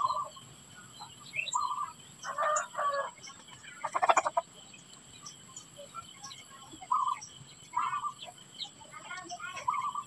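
Birds calling outdoors: short calls every second or two, a louder rattling burst about four seconds in, and thin high chirps, over a steady high-pitched hum.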